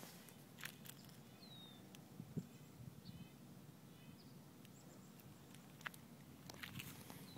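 Quiet outdoor ambience with a few sparse soft clicks. A small bird chirps faintly: one falling note about a second and a half in, then short repeated notes around three and four seconds.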